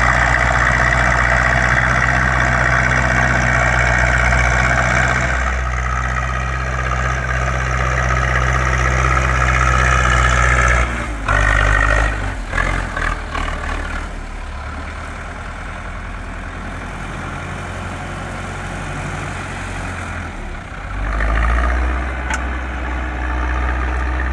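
Zetor 6245 diesel tractor engine running hard and steady while pulling a plough. About eleven seconds in it drops back sharply, with a few uneven surges, as the tractor turns at the end of the field and the plough is turned over. The engine picks up again near the end.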